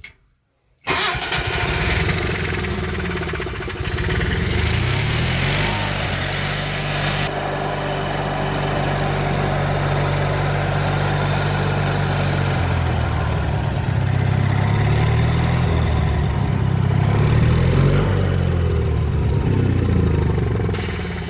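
Hobart Champion 16 engine-driven welder's gasoline engine cranks and starts about a second in, with its safety shutdown button held in, then runs loudly, its speed rising and falling several times.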